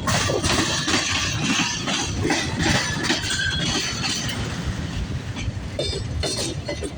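A long CSX freight train's cars rolling past, wheels clacking over the rail joints with metallic clanks and a few brief squeals.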